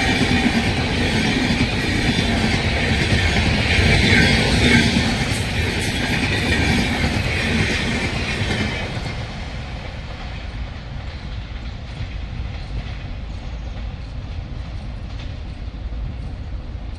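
Coaches of a passing passenger train, the 12985 Double Decker Express, rolling by with wheels clattering over the rail joints and a high ringing from the wheels. It is loud for the first half, then dies down to a low rumble as the train moves away.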